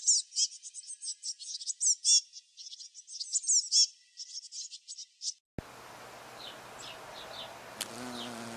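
Rapid, high-pitched animal chirping, many short calls in quick succession, stopping about five seconds in. After a brief gap, a steady low hum with a faint rising tone and a few faint chirps over it.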